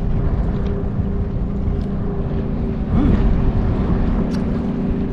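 A motorboat engine droning steadily over the water, with wind rumbling on the microphone.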